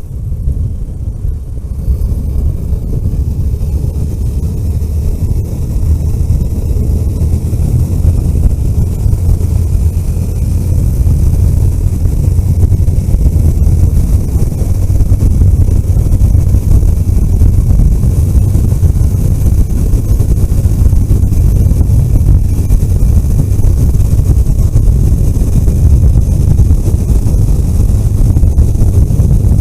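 A car being driven on the road: a steady low rumble of engine and road noise. It grows louder over the first dozen seconds as the car builds speed, then holds steady.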